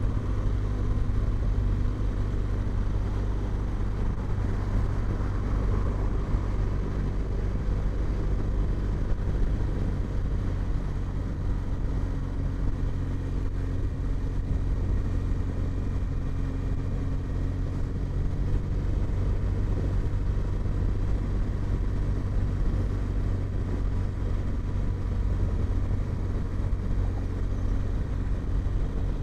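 Motorcycle riding at a steady cruise: the engine runs evenly under a steady low rumble of road and wind noise.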